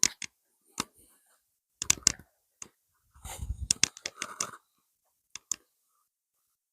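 A few sharp clicks and crackles with bits of rustling. There is a single click near the start, a cluster about two seconds in, a longer run of crackling with a low bump between about three and four and a half seconds, and one last click near the end.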